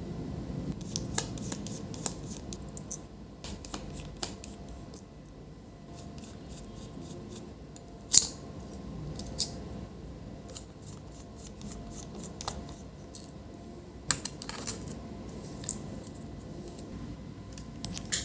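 Scattered light clicks, taps and scrapes from handling a MacBook Pro A1278 and small tools, with a sharper click about eight seconds in.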